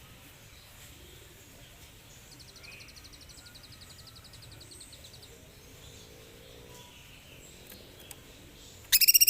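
Cucak cungkok songbird singing. A faint, fast high trill comes a couple of seconds in, and near the end a loud burst of rapid repeated chirps.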